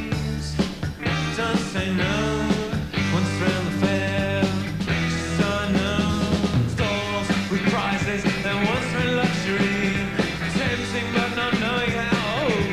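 Rock music in a psychedelic rock style, a full band playing with a steady beat.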